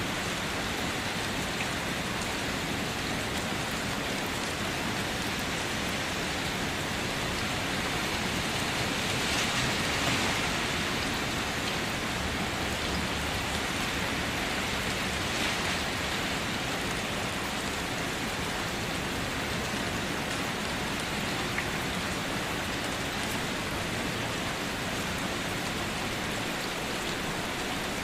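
Steady rain falling, an even hiss with slight swells about ten seconds in and again near the middle.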